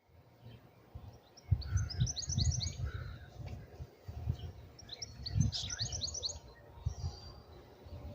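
A small songbird sings two quick phrases of high, rapid notes, over an uneven low rumble of wind on the microphone.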